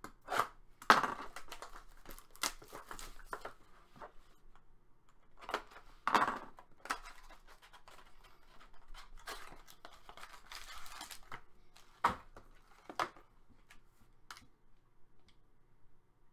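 Hockey card pack wrappers being torn open and crinkled, in a series of short, irregular rips and rustles that die down near the end.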